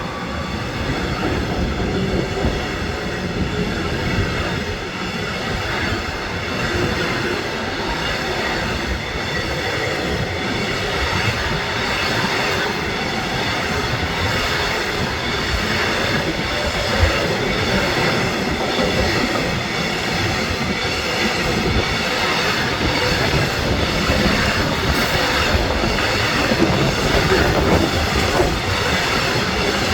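A train passing on the line, a steady loud rumble of wheels on the rails that goes on without a break.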